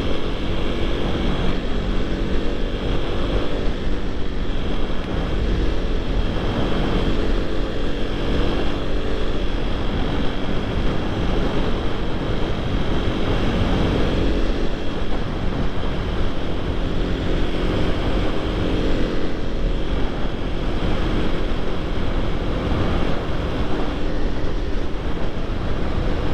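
Supermoto motorcycle engine running while riding, its pitch rising and falling with the throttle, with wind rushing over the microphone.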